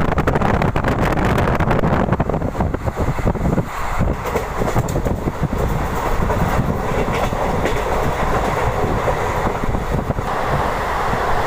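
Deccan Queen Express train running along the track, its wheels clicking over the rail joints. The clicks come thick and fast over the first few seconds, then give way to a steadier running noise.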